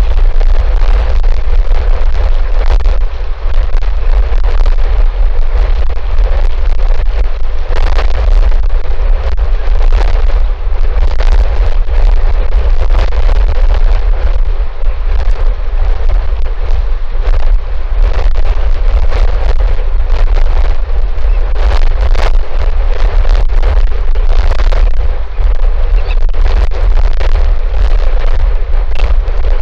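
Strong wind buffeting an outdoor camera microphone: a loud, constant low rumble with rough gusts hitting the microphone every second or so.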